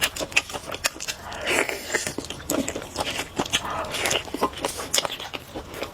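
Close-up biting and chewing of a squid skewer, with many sharp wet mouth clicks and smacks.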